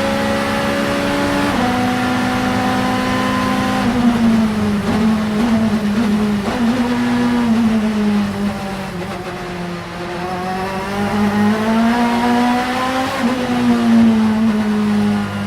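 888 Vauxhall Vectra Supertouring race car's engine running hard on track, with quick upshifts about a second and a half in and again about four seconds in. The revs then fall slowly as the car slows, climb again as it accelerates, and drop with another upshift near the end.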